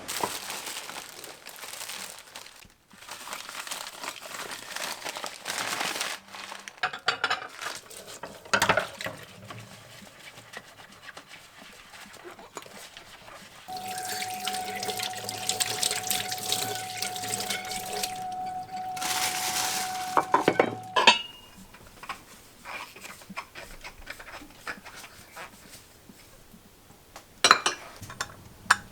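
Water running from a tap in several spells, one of them with a steady whine, then a few sharp clinks of dishes near the end.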